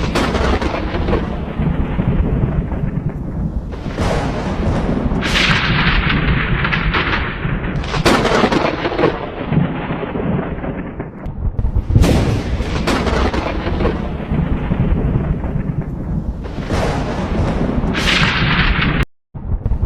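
Thunder rumbling continuously, with a fresh crackling peal breaking in about every four seconds. The sound cuts out completely for a moment near the end.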